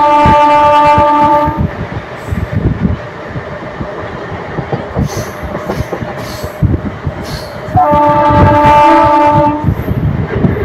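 Train horn sounding twice, a blast that ends about a second and a half in and another of about two seconds near the end, over the steady rumble and clatter of the running train.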